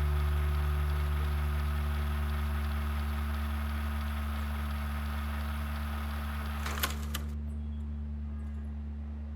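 A steady low drone of several held tones, slowly fading, with a short crackle about seven seconds in.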